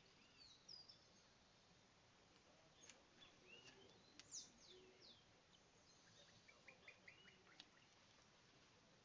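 Faint bird calls in a quiet outdoor background: scattered short, falling whistles and chirps. The loudest is a pair of descending whistles about four seconds in, and a quick series of short notes comes near the end.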